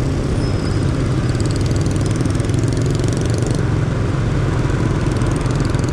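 Motorcycle engine running steadily as the bike rides on, heard up close from the rider's own machine.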